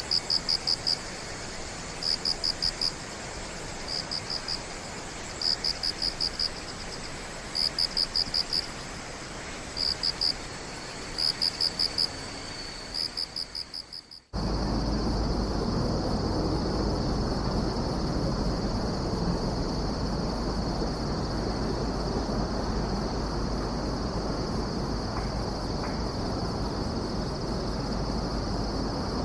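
Insects singing. First a high chirping comes in quick groups of a few pulses about every second and a half. After a brief fade to silence about halfway, a steady unbroken high trill takes over, with a low rumble under it.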